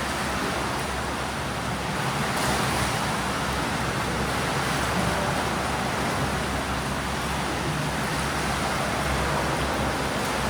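Steady wash of water noise in a swimming pool as swimmers drill breaststroke: continuous splashing and churning water, even throughout.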